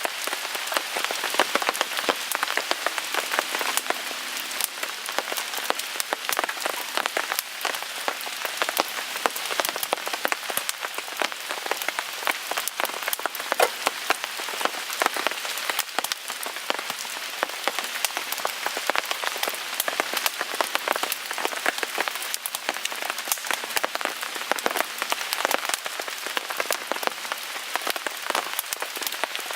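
Steady rain pattering on a tarp overhead, a dense, irregular patter of drops with no letup.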